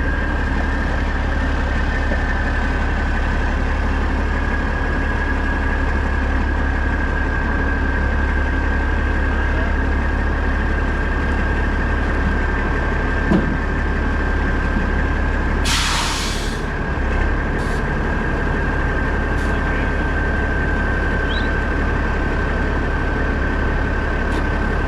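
Peterbilt semi truck's diesel engine running with a steady low drone and a steady high whine. About two-thirds of the way through, a short hiss of air is released.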